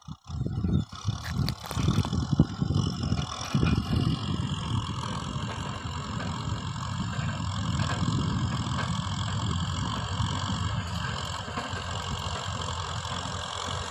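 Kubota M6040 tractor's diesel engine running steadily. Loud, irregular thumps and knocks for the first few seconds, then an even engine sound.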